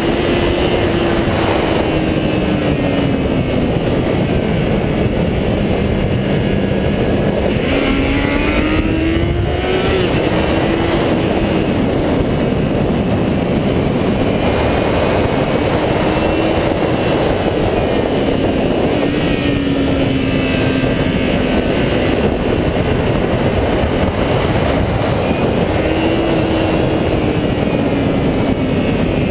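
400cc motorcycle engine running at high revs under load, its pitch sinking and climbing several times as the throttle and gears change. A heavy rush of wind noise runs under it throughout.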